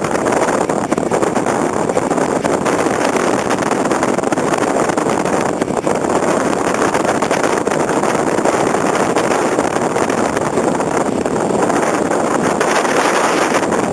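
Steady, loud rushing noise of wind buffeting the microphone at sea, with no clear engine tone.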